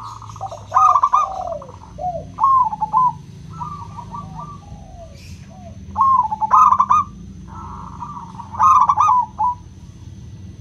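Zebra dove (perkutut) cooing in repeated short phrases of quick, bubbling notes around 1 kHz, with a second dove's lower coos overlapping between them. It is a lure recording of a clear-voiced local perkutut, meant to set other doves singing.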